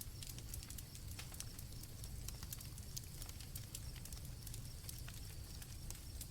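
Campfire crackling, with irregular sharp pops over a low steady rumble, and crickets chirping faintly.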